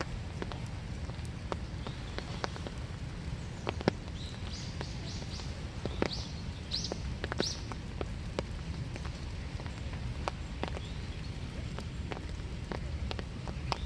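Winter rain dripping, with irregular drops tapping one by one over a steady low rumble; around the middle a bird gives a short series of high chirps.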